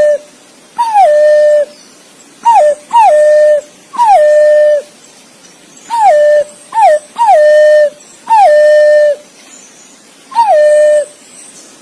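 Green pigeon (punai) calling: a series of clear whistled notes, each sliding down and then held level, given singly or in quick pairs about nine times, as in a calling track used to attract other green pigeons.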